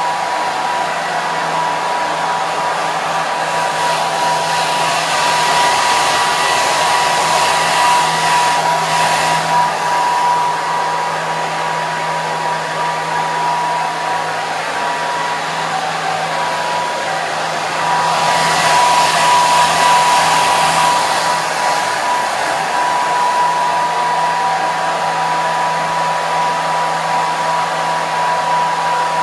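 Hair dryer running steadily: a loud rush of blown air with a constant whine and a low motor hum. The rush grows louder twice, about four seconds in and again about eighteen seconds in, then settles back.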